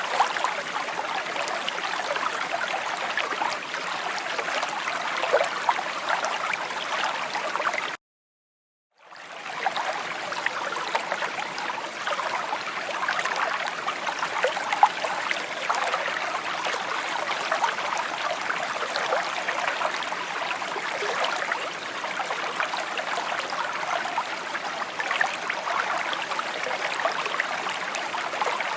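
A small stream babbling and gurgling steadily over stones, a continuous trickling flow. About eight seconds in the sound cuts out completely for about a second, then comes back.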